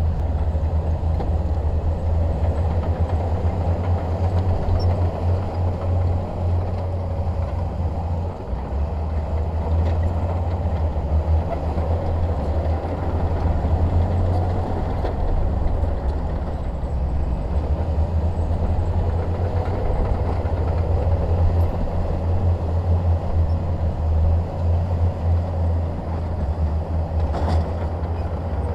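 Shantui DH17 crawler bulldozer's diesel engine running steadily under load, a deep continuous drone.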